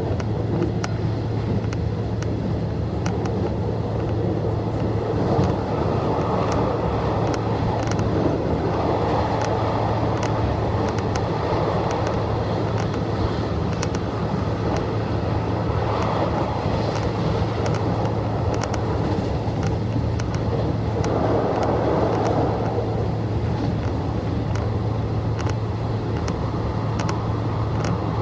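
Nishitetsu express electric train running, heard from inside the passenger car: a steady rumble of wheels on rail over a low hum, with faint scattered ticks and a slight swell in the rumble twice.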